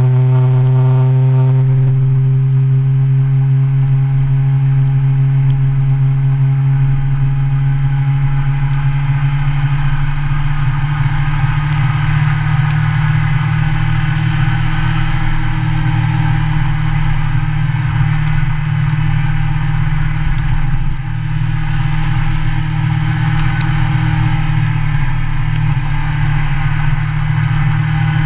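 Motorcycle engine running steadily at an even pitch on the move. A rushing noise builds in from about ten seconds in, with a brief drop in level a little after twenty seconds.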